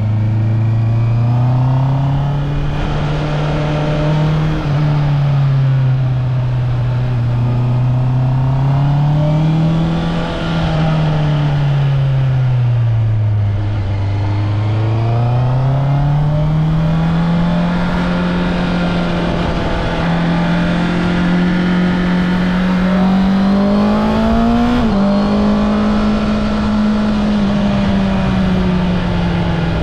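Honda CB650R's inline-four engine through its stock exhaust, pulling under way: the engine note climbs and falls slowly as the bike speeds up and eases off, with one sudden drop in pitch about 25 seconds in.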